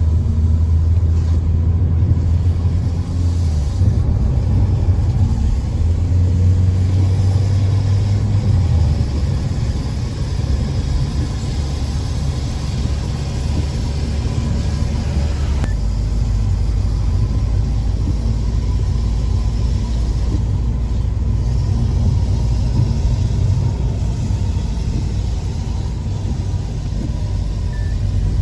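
A car driving along the road, its engine and tyre noise forming a steady low rumble that shifts in tone a little past halfway.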